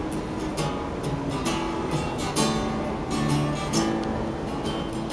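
Acoustic guitar strummed in a steady rhythm, about two strokes a second, playing the opening chords of a song before the singing comes in.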